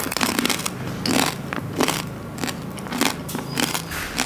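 Close-up chewing of crunchy chicharrón (fried pork-rind snack) in a mouthful of konjac soup tteokbokki: irregular crisp crunches, about two or three a second.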